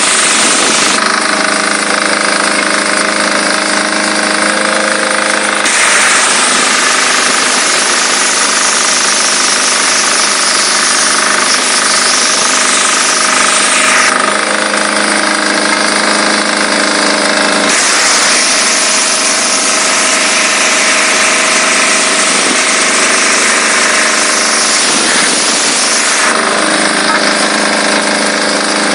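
Diesel-engine-driven high-pressure washer running, its spray jet hissing loudly. The jet stops three times for a few seconds each (about a second in, about halfway, and near the end), leaving the steady drone of the diesel engine and pump.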